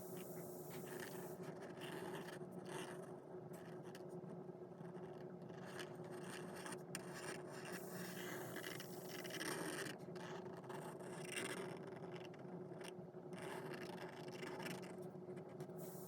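A writing tool scratching across paper as a drawing is made, in short irregular strokes over a faint steady hum.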